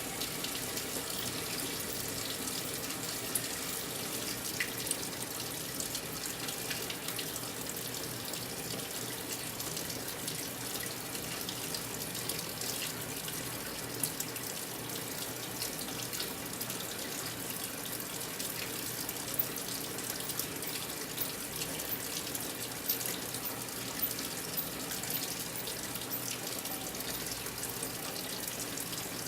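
Brastemp 9 kg top-load washing machine filling its drum with water: a steady rush of incoming water, with a few faint ticks.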